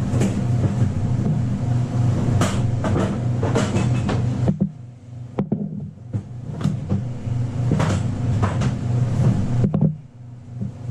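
Steady low mechanical hum with scattered knocks and clatter, from a dough box and dough being handled. The hum drops out briefly twice.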